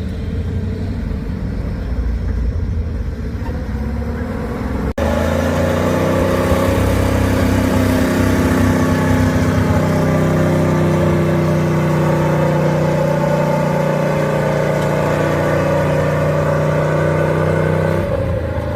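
Off-road trial truck engines working under load. About five seconds in, a louder, closer engine takes over and holds a steady pitch for most of the rest.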